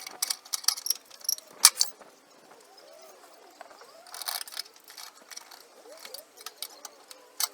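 Irregular metallic clinks and knocks from hands working an engine on a hoist, with one louder knock about a second and a half in and a short rattle past the middle. Faint chirping sounds underneath.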